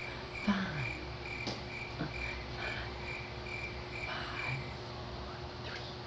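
A cricket chirping in a steady rhythm, about two chirps a second, stopping about four and a half seconds in. A few faint knocks and faint voice-like sounds are heard with it.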